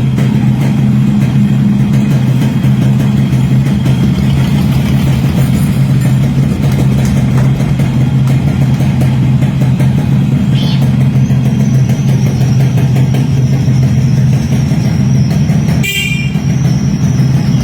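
Yamaha RXS 115's two-stroke single-cylinder engine idling steadily, with a short horn toot near the end.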